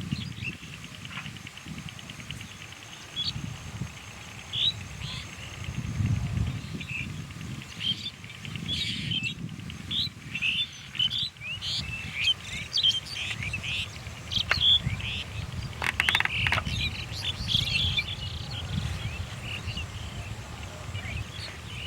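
Birds calling outdoors: many short, high calls at irregular intervals, coming thicker from about a third of the way in, over a low background rumble.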